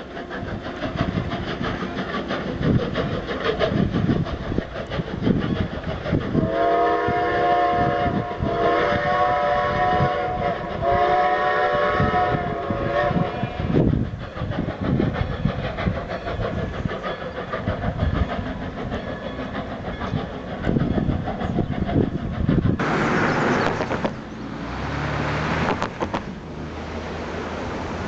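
Strasburg Rail Road 2-10-0 decapod steam locomotive No. 90 working with its train, its exhaust beating. Its chime whistle sounds three long blasts about a third of the way in. Near the end the sound changes abruptly to a steady rushing noise.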